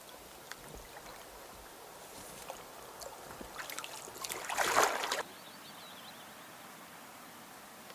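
Water sloshing and trickling around a kayak being paddled, with small drips and knocks. A louder splash of a paddle stroke comes about four and a half seconds in and cuts off suddenly.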